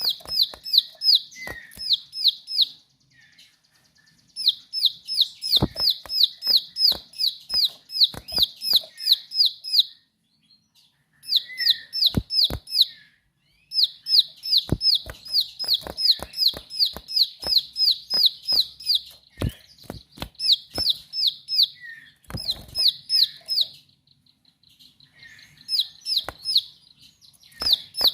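Ciblek sawah (a prinia) singing in bouts of rapid, sharp, high repeated notes, about five a second, each bout a few seconds long with short pauses between. Scattered sharp clicks run alongside.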